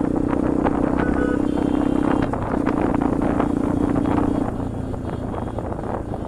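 Bajaj Pulsar NS200's single-cylinder engine running through an aftermarket Akrapovic exhaust at steady riding revs, easing off about four and a half seconds in as the throttle is closed.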